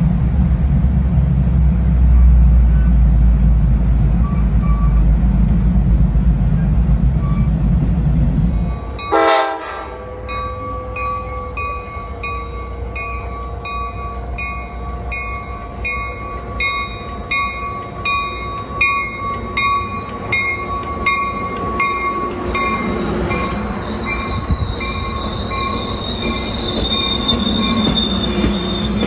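For about nine seconds, a DART light-rail train's loud low rumble. After a sudden cut, a Trinity Railway Express commuter train rolls slowly into a station: steady squealing tones from the wheels and a regular clicking about twice a second, growing louder toward the end.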